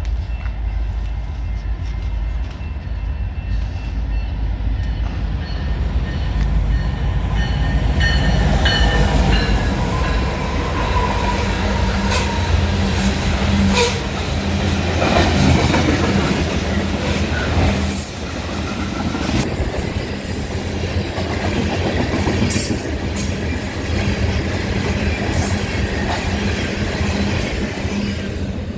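A train running past on the rails: a steady, loud low rumble of the train's engine and wheels, with scattered clicks and some high thin tones over it.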